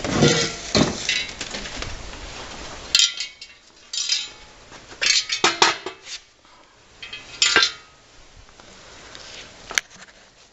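Metal mufflers being handled and set down, clanking and clinking irregularly, some knocks ringing briefly.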